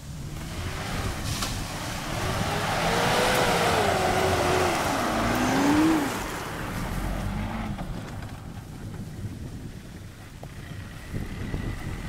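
Mitsubishi Pajero's 2.8-litre turbo-diesel engine revving up and down as the 4x4 slides on wet grass, its pitch rising and falling for several seconds and loudest about halfway through. It then drops to a lower, quieter note and fades.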